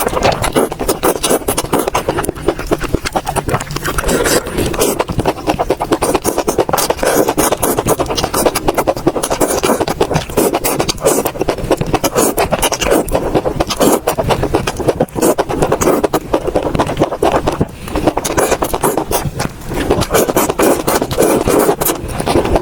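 Close-miked eating sounds from a mukbang: steady chewing and mouth sounds, a dense run of rapid clicks and crackles.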